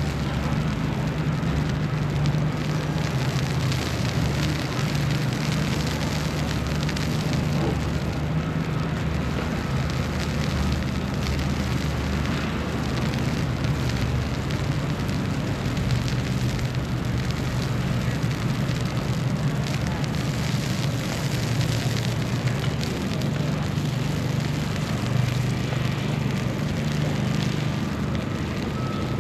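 Steady city ambience during a snowstorm: a constant low rumble under an even hiss, with no distinct events.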